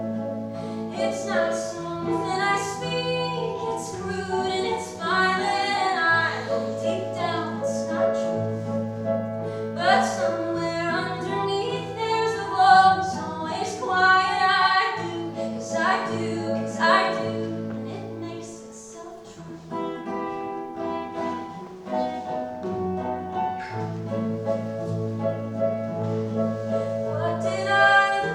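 Singers performing with instrumental accompaniment over sustained low notes, the voices dropping back briefly about two-thirds of the way through.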